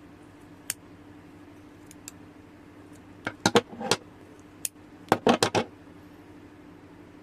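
Small hard objects clicking and clinking when handled: a lone click, then two quick clusters of sharp clicks, about three and about five seconds in, over a steady low hum.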